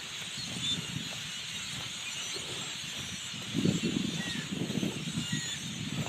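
Dense, steady chorus of a large flock of birds chattering and chirping in the trees. Irregular low thumps and rustling, loudest about three and a half to five seconds in.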